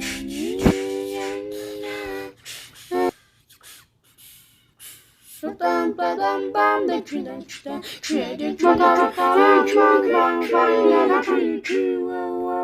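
Song voices singing held notes and melodic runs with no instruments, in the a cappella manner of an Arabic children's nasheed. In a short break about three seconds in there are a few sharp percussive beats, then the singing comes back, ending on a long held note.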